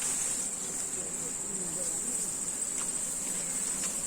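A chorus of insects buzzing steadily at a high pitch.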